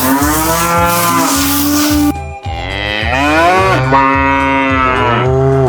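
Cow mooing: two long, drawn-out moos, the second one longer and bending in pitch.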